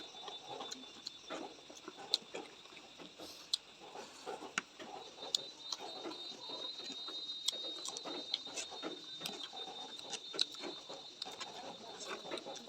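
Close-up eating sounds: chewing and wet mouth noises with many small sharp clicks at irregular intervals, over a faint steady high tone.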